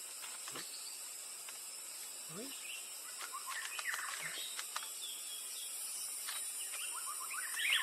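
Birds chirping in quick, short calls over a steady high insect hiss. The chirping grows busier from about three seconds in, and there is a single lower call shortly before that.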